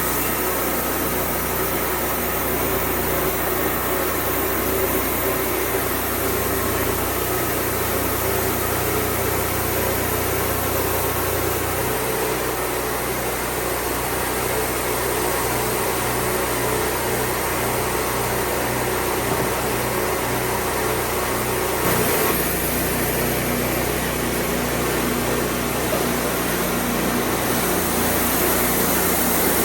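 An engine running steadily, its tone shifting about twelve seconds in and again about twenty-two seconds in.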